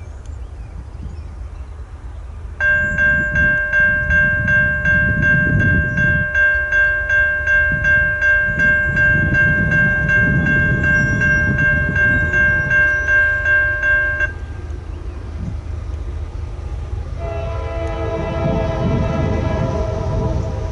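Railroad grade-crossing bell ringing about twice a second for roughly twelve seconds, then cutting off suddenly, over the low rumble of a train. Near the end a locomotive horn sounds a chord.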